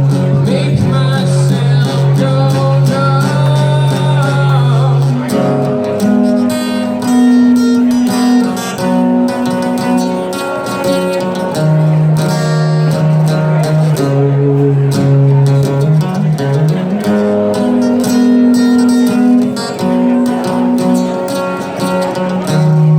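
Music led by guitar, playing long held notes and chords that change every second or two.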